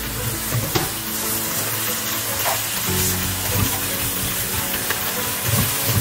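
Food sizzling steadily in a hot pan, with background music playing over it.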